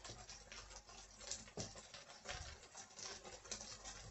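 Faint crackling of diced eggplant and vegetables frying gently in oil in an open frying pan, with scattered soft ticks and a couple of dull low knocks.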